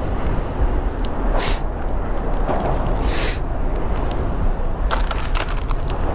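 Steady low rumble of wind buffeting a chin-mounted action camera microphone on the move, with two short hissing surges about one and a half and three seconds in, and a quick run of clicks around five seconds in.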